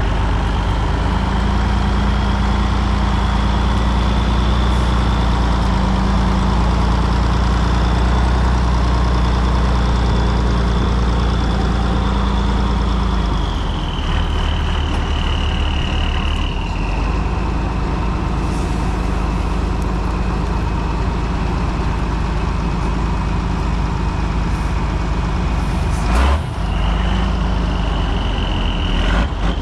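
A heavy off-road truck's engine running steadily, with a high whine over the low engine note. About halfway through, both the engine note and the whine drop, and a short sharp knock comes near the end.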